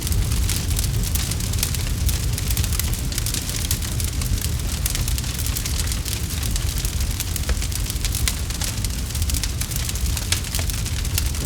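Campfire burning steadily with a low rumble and dense, irregular crackles and pops of burning wood.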